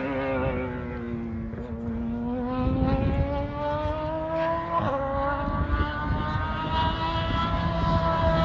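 Race car engine running, its pitch dipping then climbing slowly, with a sudden drop about five seconds in like a gear change before it climbs again.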